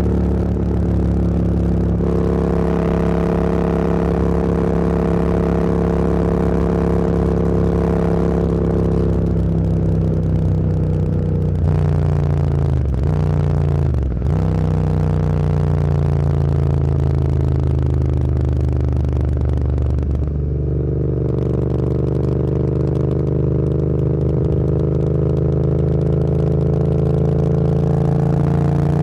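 Motorcycle engine running under way at a steady pitch, with two quick dips in pitch around the middle. About two-thirds of the way through the throttle eases off, then the pitch rises as it accelerates near the end.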